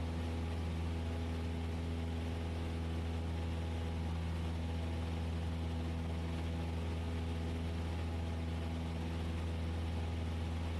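Cessna 172S's four-cylinder Lycoming engine and propeller droning steadily in the climb after takeoff.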